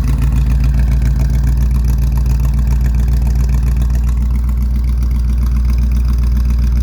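1971 Chevy C10 pickup's engine idling steadily just after a cold start, having sat unused for five months.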